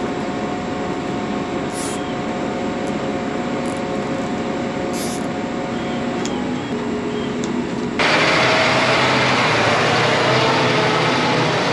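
Vehicle engine running steadily, with a few faint clicks. About eight seconds in, it cuts abruptly to louder, rushing vehicle noise.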